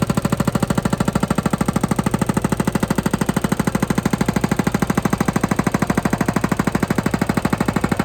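Heavy machinery pounding in a fast, even rhythm, about a dozen beats a second, loud and unchanging.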